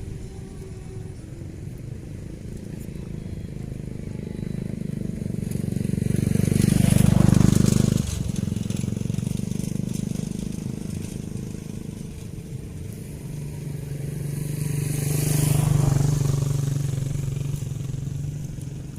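Motor vehicle engines passing, swelling to a peak about seven seconds in and dropping off abruptly a second later, then a second vehicle swelling and fading near the end.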